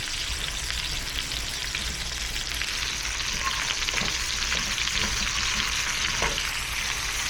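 Meat sizzling in a stir-fry pan, a steady frying hiss with a few light knocks from stirring. The pan is crowded, so the meat is partly steaming rather than searing.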